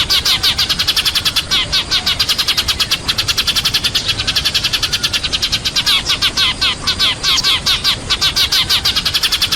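Sparrows chirping in a dense, unbroken run of quick chirps, several a second: a flock call of the kind used as a lure to draw sparrows in.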